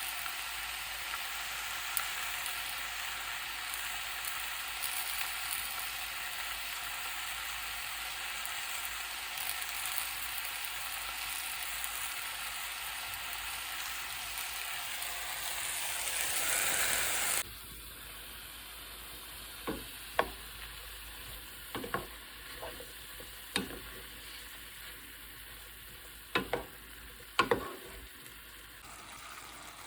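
Food sizzling as it fries in a pan, growing louder for a moment before it cuts off suddenly about two-thirds of the way through. After that there is a quieter background with scattered sharp taps, like utensils knocking on the pan.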